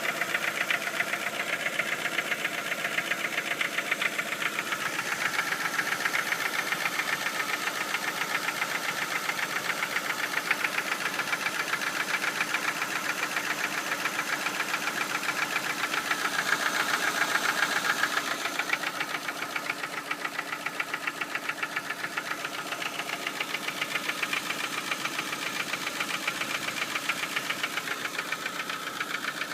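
Ford Focus Mk1 2.0-litre Split Port four-cylinder engine running with a fast, steady, rhythmic knock of unknown cause. The knock dips slightly in level about two-thirds of the way through.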